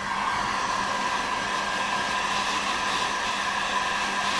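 Electric heat gun running steadily, an even rush of blown air with a steady motor whine, heating a plastic patch before it is welded onto a kayak hull.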